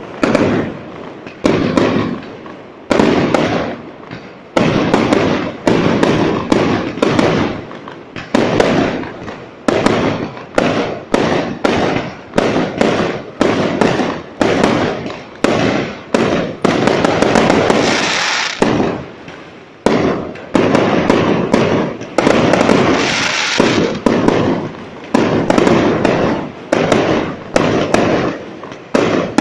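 Fireworks display: loud bangs going off in quick succession, about one a second or faster, each trailing off in an echo, with two stretches of dense, continuous banging and crackling about midway.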